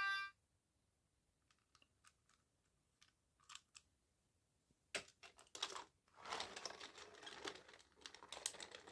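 A toy's electronic melody cuts off right at the start. After that come a few faint clicks, then from about five seconds in a sharp click and a run of clicking and rustling, like a plastic toy being handled.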